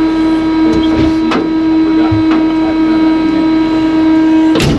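A loud, steady electrical buzz with one unchanging pitch, with a few faint knocks. It cuts off with a click near the end, just before the engine is started.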